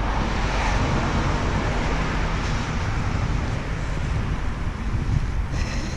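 Steady rumbling vehicle and road-traffic noise, with a brief high-pitched squeak near the end.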